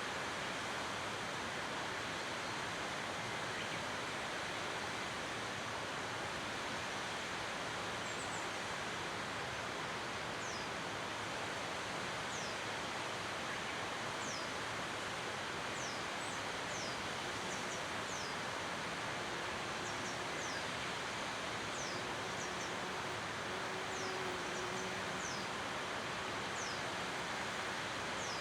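Waterfall rushing steadily. From about eight seconds in, a small bird repeats short, high calls, each falling in pitch, about one every second or two.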